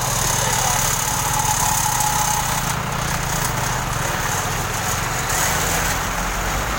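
A heavy engine running steadily, with a low, even hum.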